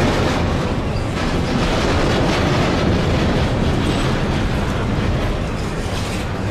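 Double-stack intermodal container cars rolling past on the near track: a steady rumble of steel wheels on the rails.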